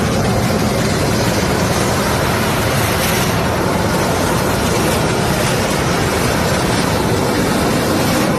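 Loud, steady aircraft engine noise that runs unbroken, with no distinct events.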